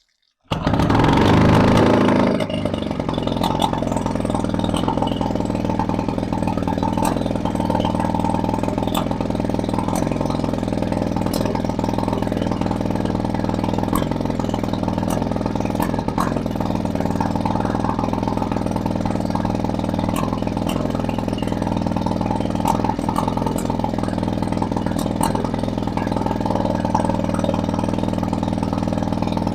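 Viking 15 hp two-stroke outboard motor running on hose cooling water. It comes in about half a second in, louder for the first two seconds, then settles into a steady run. Its exhaust manifold has been resealed, and it runs pretty nicely.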